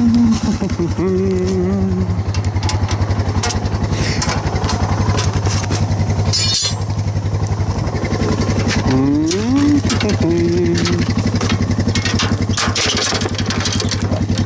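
Single-cylinder motorcycle engine idling steadily, warming up after its first start of the spring. A few long, low drawn-out calls rise over it.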